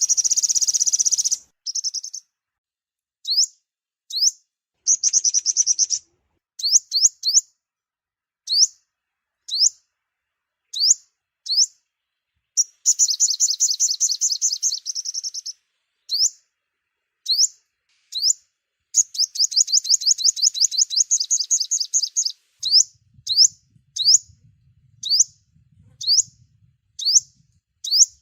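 Sunbird song, as used to lure sunbirds for trapping: short, high, thin upward-sweeping notes about once a second, broken by long rapid high trills of two to three seconds each, four times. A faint low hum comes in over the last few seconds.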